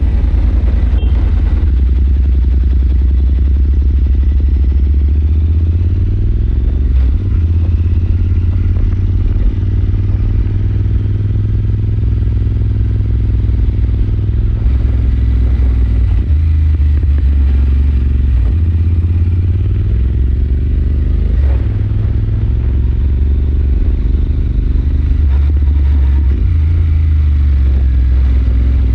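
Royal Enfield Super Meteor 650's 648 cc parallel-twin engine running under way as the motorcycle cruises. The engine note climbs in pitch and drops back a few times, around 7, 16 and 21 seconds in.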